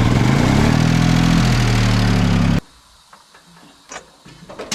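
1964 Ford 2000 tractor engine just started, its revs rising briefly and then running steadily. The sound cuts off abruptly about two and a half seconds in, leaving quiet with a few faint knocks, and the engine is heard again at the very end.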